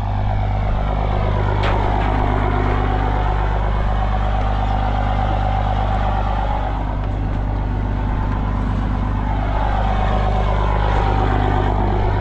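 Truck engine running steadily at idle: a deep steady hum, with a higher tone that swells and fades twice.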